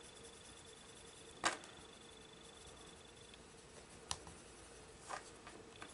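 A few sharp little clicks and taps from colouring pencils being handled on a desk, the loudest about a second and a half in and two more near the end, over faint room tone with a faint steady high whine.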